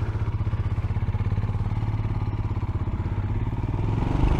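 Royal Enfield Himalayan's single-cylinder engine running steadily with an even low pulse, picking up revs near the end, heard through a helmet microphone.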